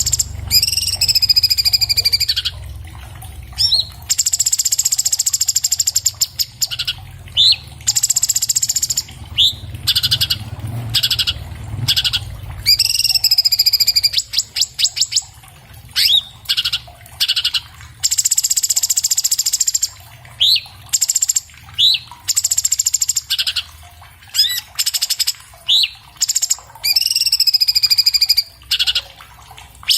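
Orange-bellied leafbird (Chloropsis hardwickii) singing its loud, varied song. Buzzy, rattling phrases with swooping whistles, each about a second and a half long, alternate with short, sharp upslurred notes, phrase after phrase with brief gaps.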